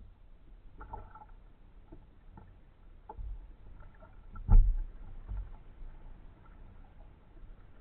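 Kayak paddling: paddle and hull noise with scattered light knocks and one heavy low thump about halfway through.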